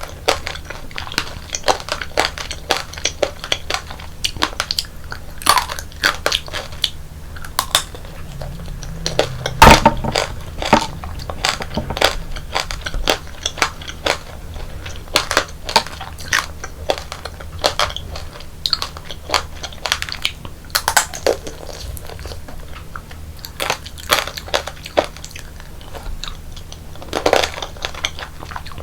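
Close-miked crunching and chewing of tanghulu, fruit coated in a hard sugar-candy shell: a dense run of sharp crackles as the candy shell breaks between the teeth. The loudest crunch comes about ten seconds in.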